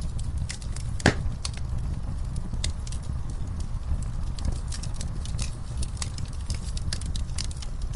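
Wood fire burning in a fireplace: a steady low rumble of flames with scattered irregular crackles, and one louder pop about a second in.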